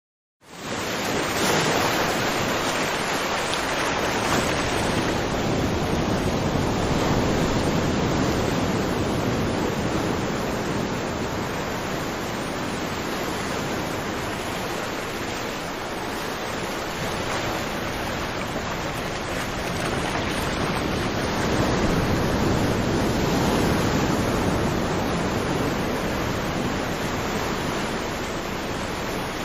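Ocean surf on a beach: a steady wash of breaking waves that swells and recedes slowly. It starts suddenly just after the beginning.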